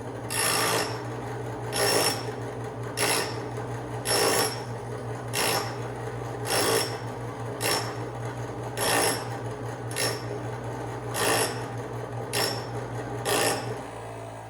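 Old bench grinder running with a steady motor hum while a drill bit clamped in a homemade sharpening jig is worked against the wheel. The bit grinds in about a dozen short rasping strokes, roughly one a second.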